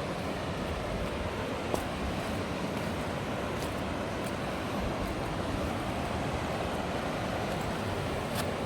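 River rapids rushing in a steady, unbroken wash of water noise, with a sharp click about two seconds in.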